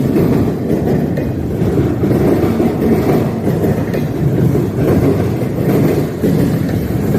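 Freight train cars rolling past on the rails: a steady, loud, low rumble.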